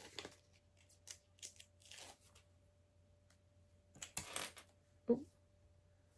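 Small plastic LEGO pieces clicking and clinking as they are handled: a handful of separate clicks, then a louder clatter of bricks about four seconds in.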